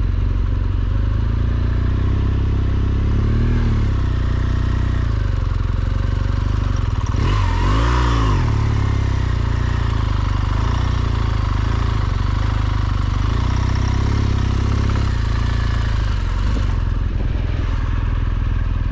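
BMW R1200GSA's boxer-twin engine running at low speed, steady throughout, with a brief surge of louder, wider noise about eight seconds in.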